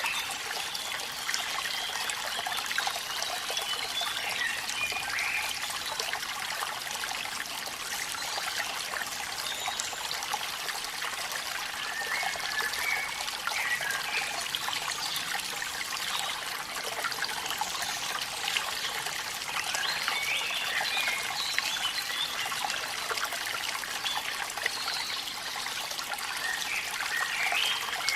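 Steady splashing and trickling of running water from a waterfall, with short wavering chirps rising over it every few seconds.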